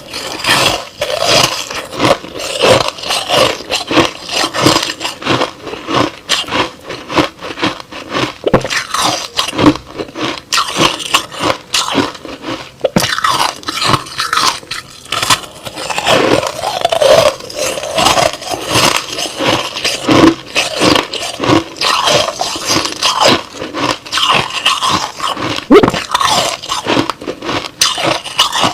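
Crushed ice being bitten and chewed close to the microphone: a dense, irregular run of loud crunches, with a few short squeaks among them.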